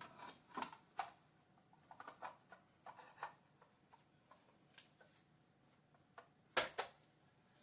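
Quiet handling noises at a workbench: scattered light clicks and rubbing, with one sharper knock about six and a half seconds in. The belt sander is not heard running.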